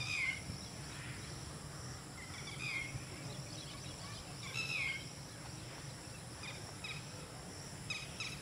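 A bird calling in short, falling chirpy phrases about every two seconds, with a few quick chips between, over a steady high insect drone and low background rumble.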